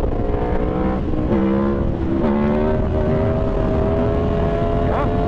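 Aprilia Tuono V4 motorcycle's V4 engine running under way, over a low rumble of wind. The engine note drops and shifts twice in the first couple of seconds, then holds a steady, slowly rising pitch.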